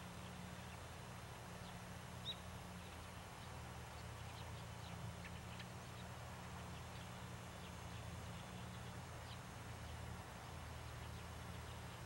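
Faint, short chirps of distant small birds, scattered, with one a little louder about two seconds in, over a steady low rumble.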